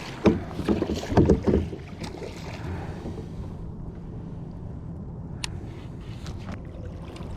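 A few knocks and clatters of gear being handled aboard a kayak in the first two seconds, then a steady low rumble of wind on the microphone, broken by a single sharp click later on.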